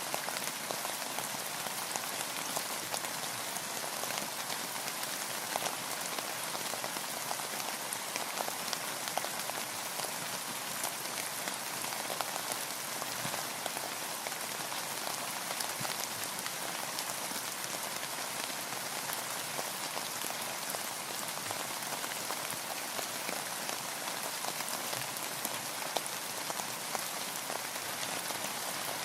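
Steady rain falling on and around a boat: an even hiss made of countless small drop hits, with many distinct individual ticks throughout.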